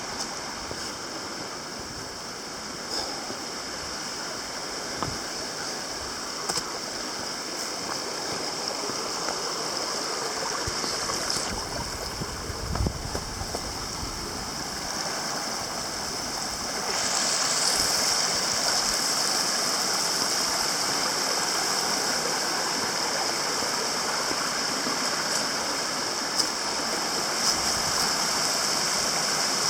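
Creek water rushing steadily over rocks, the sound of a small waterfall; it gets louder and brighter a little past halfway.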